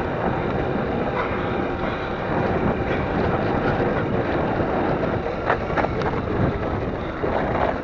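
Steady rushing noise of an electric dirt bike being ridden along a dirt track: tyres on dirt and wind over the microphone.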